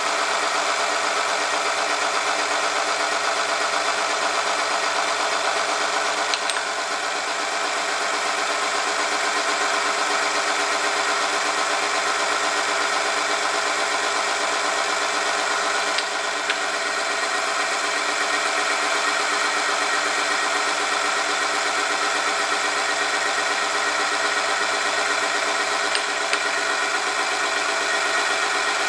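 Oil-film friction test machine running steadily, its motor-driven shaft rubbing against a test sample lubricated with Yacco Galaxie GT 10W60 under weighted load. The machine runs with a steady hum, with three faint clicks about ten seconds apart.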